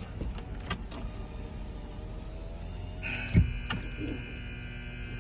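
Car wash tunnel horn sounding a steady, multi-toned blast from about three seconds in. A single loud thump comes just after the horn starts.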